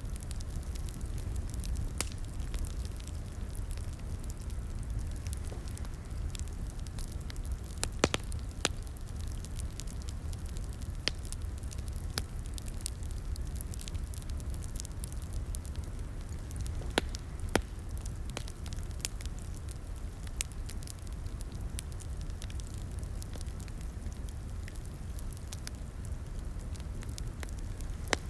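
Wood fire crackling in a fireplace: a steady low rumble and hiss with irregular sharp pops and snaps, a few louder ones scattered through.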